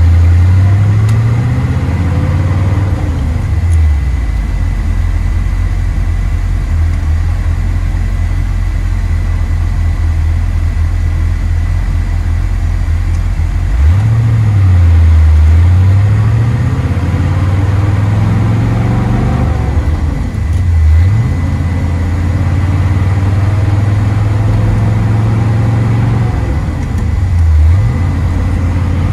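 1969 Chevrolet Corvette C3's V8 engine heard from inside the cabin while driving. The engine note climbs under acceleration, then drops and climbs again several times as the car goes through the gears, over steady road and wind noise.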